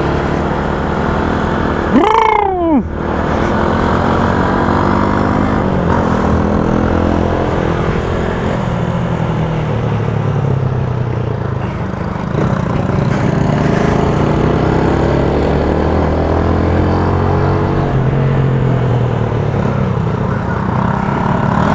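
Motorcycle engine running under way, its pitch rising and falling with the throttle, over a steady noise of wind and wet road. About two seconds in, a short loud tone rises and falls.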